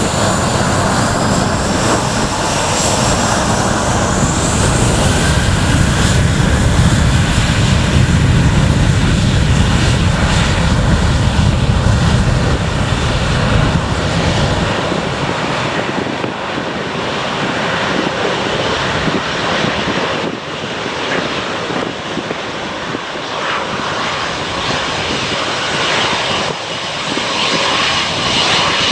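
Departing airliner's engines at takeoff power, passing close: a heavy low rumble that is loudest about eight seconds in, with a high whine rising in pitch early on. About fifteen seconds in the deep rumble falls away as the aircraft recedes, leaving a thinner roar.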